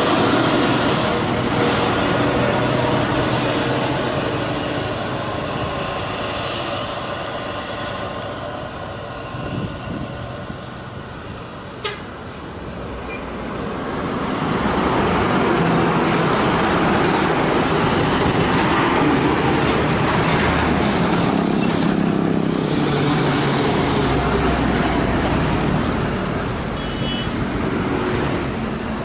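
Heavy truck diesel engines labouring under load on a hill climb. One fades away over the first twelve seconds, with a sharp knock near the middle, and then another grows louder and keeps running through the second half.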